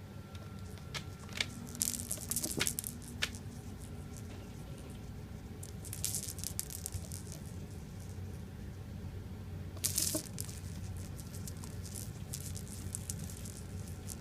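A cat playing, making bursts of rustling and scratching noise with scattered sharp clicks over a steady low hum. The loudest bursts come about two seconds in, around six seconds, and about ten seconds in.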